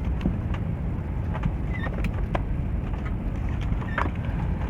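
Steady low vehicle rumble with scattered light clicks and knocks.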